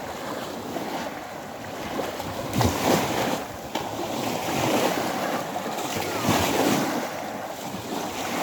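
Small sea waves washing onto the shore, with wind buffeting the microphone; the wash swells up twice, about three seconds in and again about six seconds in.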